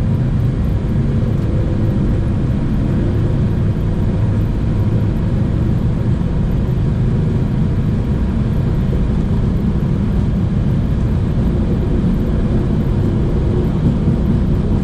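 Boeing 737-800 flight deck during the takeoff roll: a loud, steady low rumble from the CFM56 engines at takeoff thrust.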